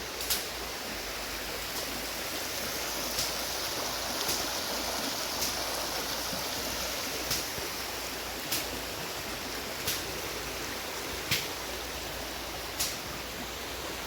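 Rainforest creek water flowing steadily, with a short, sharp high tick recurring roughly every second or so.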